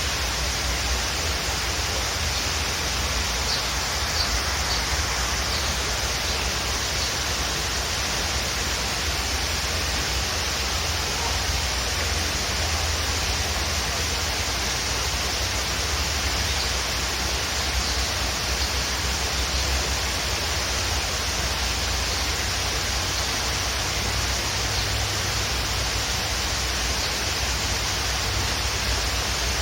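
Waterfall rushing in a steady, even roar of falling water, with a few faint, short high bird chirps about three to five seconds in.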